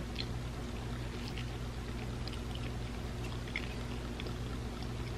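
Faint mouth sounds of chewing a bite of vegan pizza, a few small wet clicks over a steady low electrical hum and hiss.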